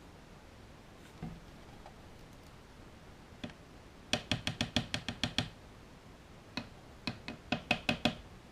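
Static grass applicator being shaken to dispense grass fibres, giving quick runs of sharp taps at about eight a second. One run comes about four seconds in and another near the end.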